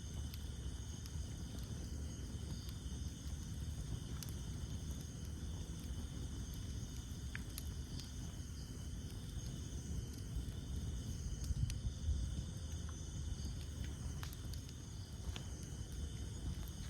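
Campfire burning: a steady low rumble of flames with scattered sharp crackles and pops from the burning wood, over a steady high-pitched chorus of night insects.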